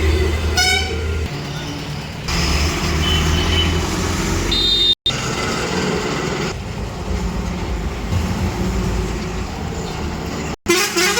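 Truck engine running on the road with a steady low hum, and short horn toots, one just under a second in and more around three to five seconds in. The sound cuts abruptly between clips, dropping out briefly about five seconds in and again near the end.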